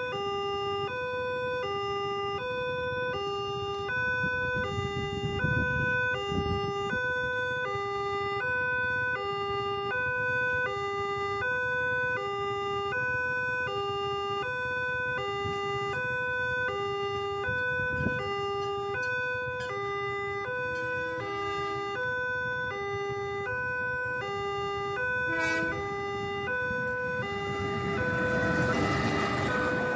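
Railway level-crossing warning alarm sounding its electronic two-tone signal, a lower and a higher tone alternating about once a second each, which means a train is coming and the crossing is closing. Road traffic runs underneath, and a rushing noise grows louder near the end.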